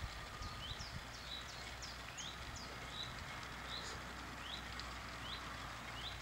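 A songbird calling in a string of short, high chirps and quick pitch sweeps, about three a second, over a steady low rumble.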